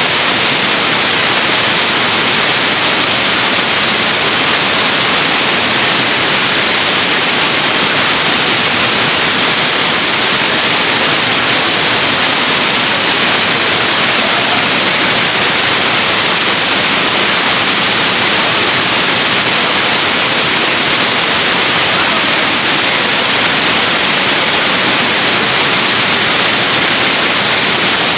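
Waterfall: a steady, loud rush of falling water, an even hiss that does not change.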